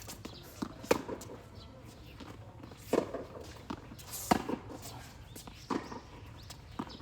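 Tennis balls being struck by rackets and bouncing on the court during a rally: sharp knocks every second or two over a low background hum.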